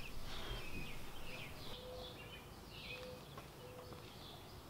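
Birds chirping outdoors: many short falling calls, with a few short, steady, lower notes in between.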